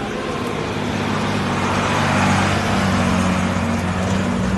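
An engine running steadily, with a rushing noise that swells about two seconds in and then eases off.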